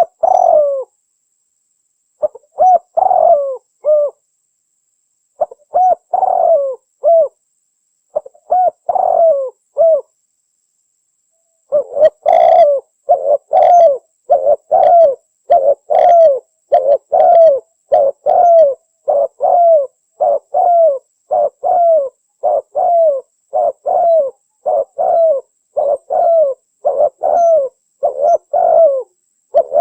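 Spotted dove (tekukur) cooing, as used for luring the species: a few short coo phrases separated by pauses, then from about twelve seconds in an unbroken run of coos at about two a second.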